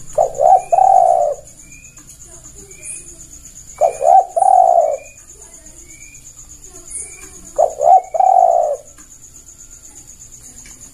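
Spotted dove (tekukur) cooing: three calls a few seconds apart, each two short notes followed by a longer rolling coo. Faint repeated high chirps from another bird and a steady high insect buzz run underneath.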